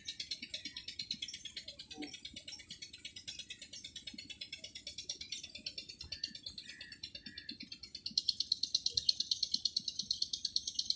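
Insects chirping in a fast, steady pulse of high-pitched clicks, about eight a second, growing louder about eight seconds in.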